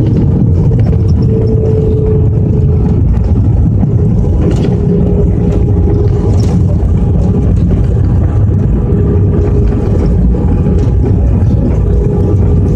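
Jet airliner engines and airflow heard inside the passenger cabin: a loud, steady low roar with a faint held tone running through it.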